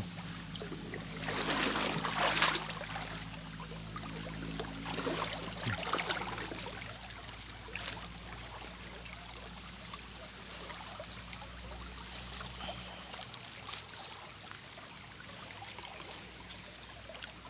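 Shallow water sloshing and trickling as someone moves through it, with louder splashy stretches about 1–2.5 seconds in and again around 6 and 8 seconds, over a faint steady low hum.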